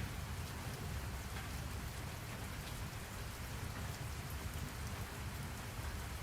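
Steady rain falling on a surface, with a low rumble underneath and scattered drop ticks: a background rain-sound track.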